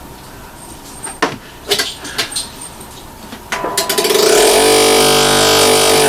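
A few knocks and clicks, then about three and a half seconds in a boxed-in tile-cutter motor on a homemade drum sander switches on. It spins up with a rising whine and settles into a steady, loud run.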